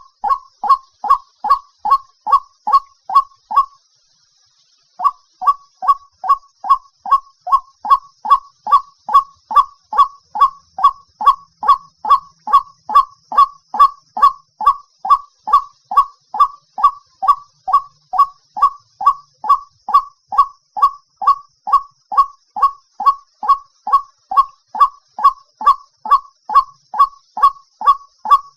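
White-breasted waterhen calling: a steady run of loud, repeated honking notes, about two to three a second, breaking off briefly about four seconds in and then resuming at the same pace. This is the bird's territorial call as played for luring.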